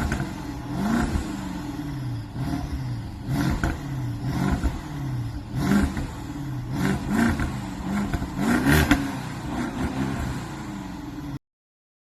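BMW F10 550i's twin-turbo V8 being revved over and over, the engine pitch rising and falling about once a second, with short sharp noises between the revs. The sound cuts off suddenly near the end.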